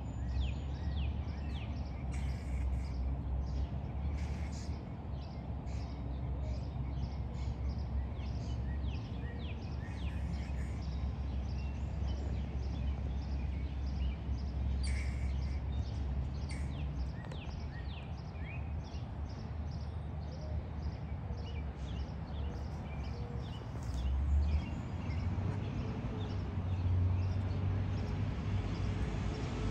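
Squirrel calling with many short, sharp chirps in quick runs, over a steady low rumble.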